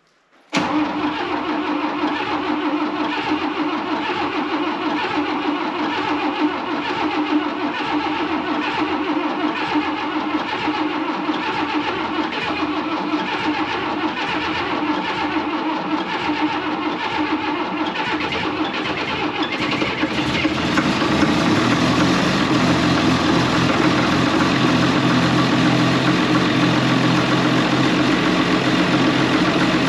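Diesel engine cranking over on a frosty cold start with its flat battery boosted. It catches about twenty seconds in and settles into a steady run, lower and a little louder.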